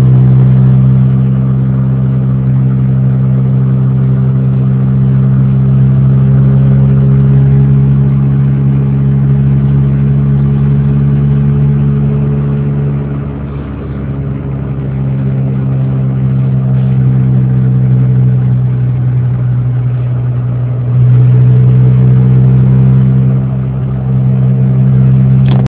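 Mazda 323F engine held at high revs at speed, a loud steady drone with road and wind noise, heard from inside the cabin. The revs ease off briefly a couple of times and then come back up.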